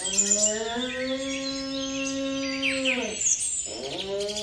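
Moose calling: a long, drawn-out moaning call that holds a steady pitch and drops away at about three seconds, with a second call starting near the end. Birds chirp in the background.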